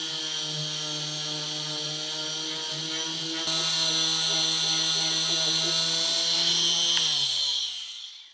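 An electric motor-driven tool running at a steady speed with a high hissing, abrasive noise, which gets louder about three and a half seconds in. About seven seconds in it is switched off and spins down, its pitch falling until it stops.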